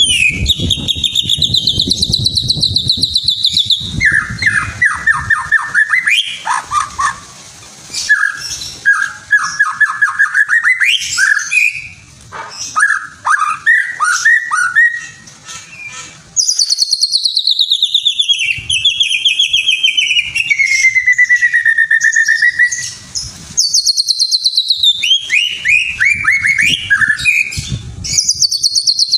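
A songbird singing a loud, varied song of rapid trills and whistled phrases, with short pauses between phrases; one long trill, starting about halfway through, falls steadily in pitch over several seconds.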